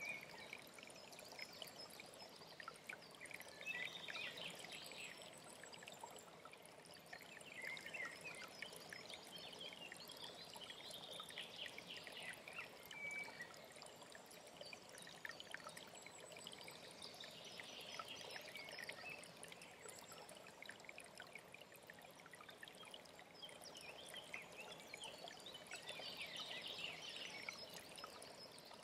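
Mountain stream running and trickling steadily, with small birds chirping in short high bursts every few seconds.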